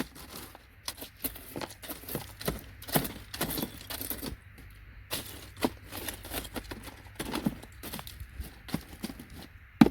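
Irregular clicking and clattering of loose gold-plated pins and connector scrap, pushed down and stirred in a bucket with a piece of circuit board.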